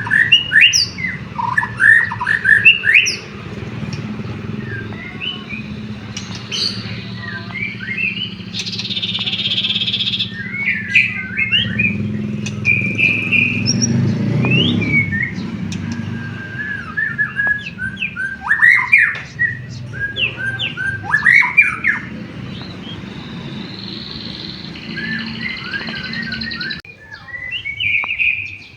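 White-rumped shama (murai batu) singing in full, energetic song: quick runs of sharp whistles, chirps and slurred notes with short pauses, including canary-like phrases in its repertoire. A steady low hum runs underneath.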